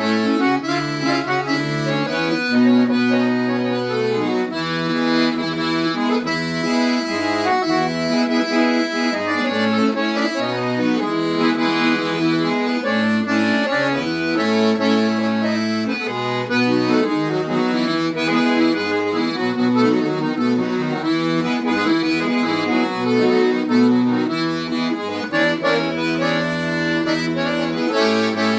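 Accordion music with a bass line, a steady dance rhythm of sustained chords and melody.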